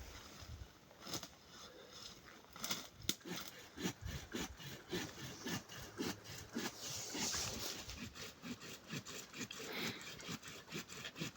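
A series of irregular knocks and clicks, with some scraping or rubbing in between.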